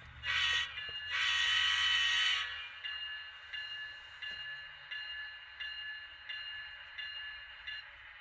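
Sound decoder of an N-scale ScaleTrains GE ET44 (GEVo) model locomotive playing its horn: a short blast, then a longer one, followed by the locomotive bell ringing at an even pace, about once every two-thirds of a second, over the low hum of the idling diesel.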